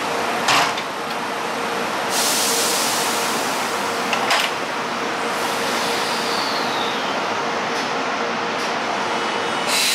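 JR Shikoku 8000 series electric train standing at the platform: a steady hum of its running equipment, with two sharp knocks, one about half a second in and one about four seconds in, and a high hiss that starts about two seconds in.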